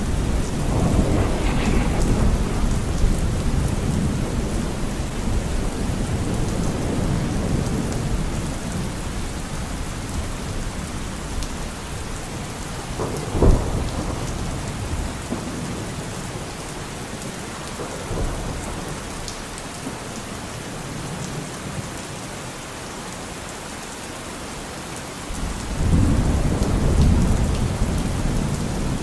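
Steady rain falling with thunder: a long low rumble that fades over the first ten seconds or so, a sharp crack about 13 seconds in, and another loud rumble rolling in near the end.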